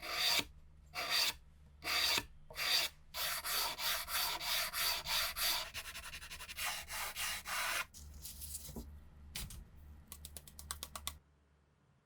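Hand abrasive rubbing, as in sanding, in repeated back-and-forth strokes. It starts with a few slow separate strokes, runs into quicker steady strokes, and ends in a fast flurry that stops suddenly about a second before the end.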